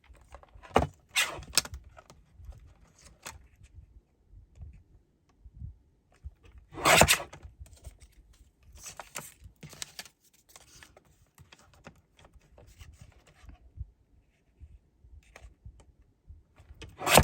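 Paper-craft handling sounds: paper strips rustling, tapping and being pressed onto a card, as scattered faint clicks and rustles with one louder rasp about seven seconds in.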